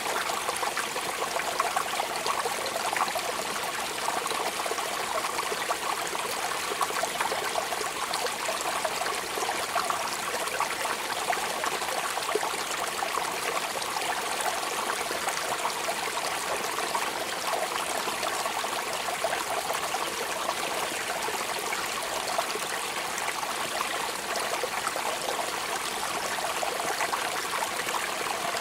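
Steady rain falling: an even hiss of drops, with many small louder spikes throughout and no change in strength.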